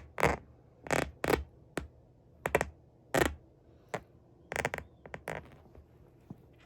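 Worn Sperry boat shoes being handled and flexed: a run of short, irregular creaks and scuffs that stops about five seconds in.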